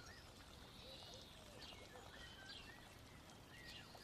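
Faint birds chirping, many short calls over a low hiss.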